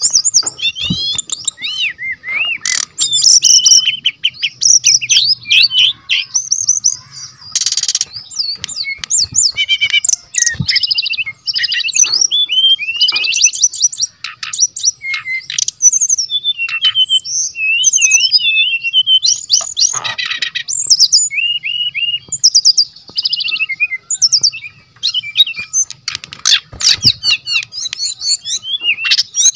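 Brown-chested jungle flycatcher singing continuously and loudly, a rapid run of varied whistles, chips and trills packed with mimicked phrases.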